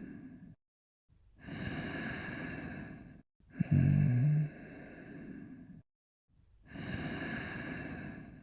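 Cartoon snoring: a long rasping breath in, then a loud snore with a low rattle that trails off into a breath out. The same cycle repeats about every five seconds.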